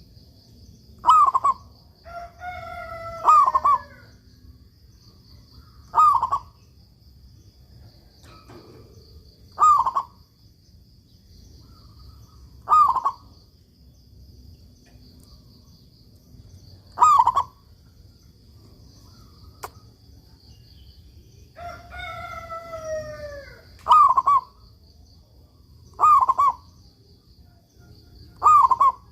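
Zebra dove (perkutut) singing: short cooing phrases, about nine in all, repeated every two to four seconds. A rooster crows twice, more quietly, behind it.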